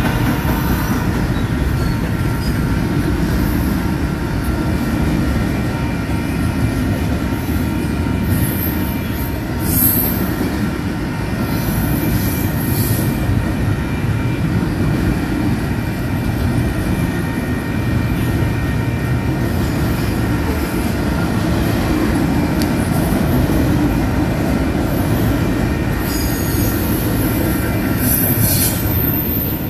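Double-stack intermodal container cars rolling past close by: a steady rumble of steel wheels on rail, with thin, high wheel squeal running over it. Brief surges of high hiss come around ten seconds in and again near the end.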